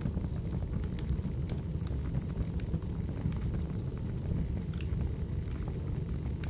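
Burning firewood crackling and popping over a steady low rumble of the flames, with frequent small sharp snaps.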